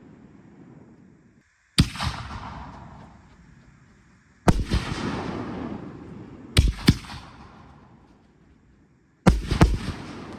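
Consumer aerial firework shells bursting: a sharp bang every two to three seconds, some in quick pairs, each trailing off in a fading rumble and crackle.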